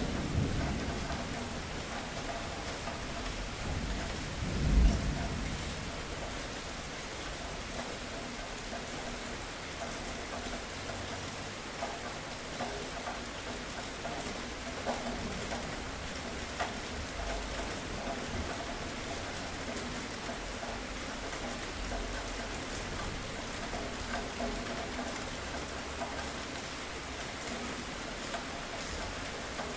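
Steady heavy rain falling, with a loud thunder clap about five seconds in and softer low thunder rumbles later on.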